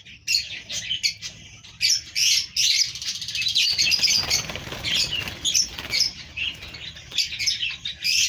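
Cockatiels and other small pet parrots chirping in an aviary: a dense, continuous twitter of short high chirps, busiest around the middle.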